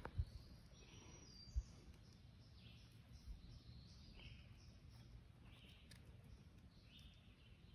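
Near silence with faint, short, high bird chirps repeating about once a second, and a single soft bump about one and a half seconds in.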